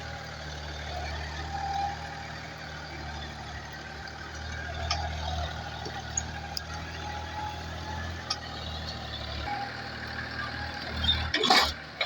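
Farm tractor engine running steadily during soil tilling. Near the end comes a brief, loud knock.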